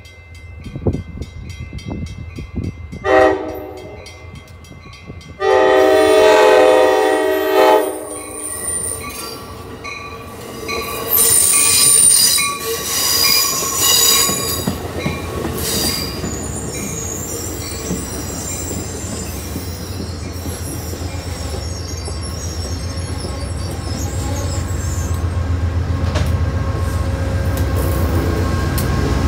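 Arriving Shore Line East commuter train sounds its horn: a short blast, then a long one of about two and a half seconds. Then come high wheel and brake squeal as the coaches roll by, and a steady rail rumble that builds toward the end.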